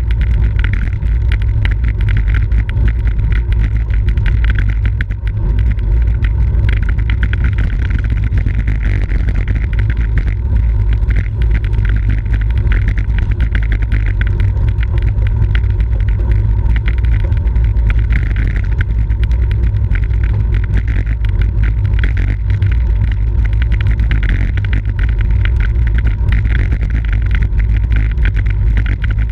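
Steady, loud wind rumble on the microphone of a camera carried on a racing bicycle at speed, with a lighter hiss of rushing air above it.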